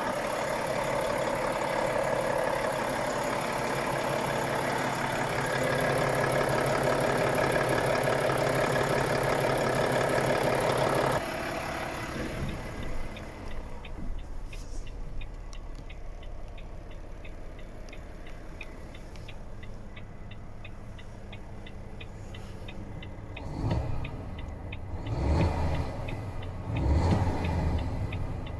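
Volvo FH 540 truck's 13-litre six-cylinder diesel running, its sound rising about five seconds in, then stopping abruptly about eleven seconds in. A steady, fast ticking follows, with a few low thumps near the end.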